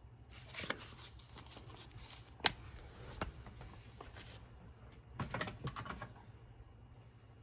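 Sheets of paper being handled on a work surface: short rustles and light taps, with one sharp click about two and a half seconds in and a longer rustle near the end.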